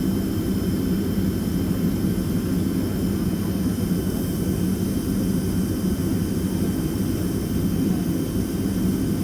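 Steady jet engine noise of a Boeing 767-300ER heard from inside the passenger cabin: a dense low noise with faint steady higher tones, unchanging throughout.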